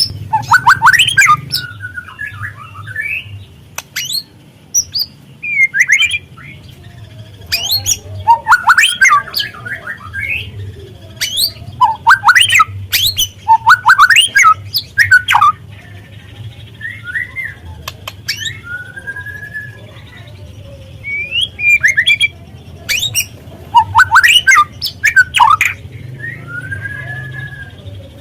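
White-rumped shama (murai batu) singing in loud bursts of sharp chattering, rattling and short whistled phrases, each burst a second or two long with brief pauses between. The rattles are the harsh 'kretekan' notes used in lure recordings to provoke other shamas to sing.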